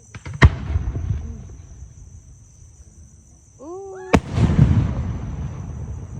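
Large aerial firework display shells, 8-inch golden willow, going off twice about three and a half seconds apart. Each is a sharp, loud bang followed by a long rolling rumble. Crickets chirp steadily underneath.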